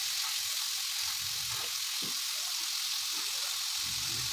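Marinated chicken pieces sizzling steadily in hot oil in a frying pan, with a soft knock about two seconds in as a utensil turns them.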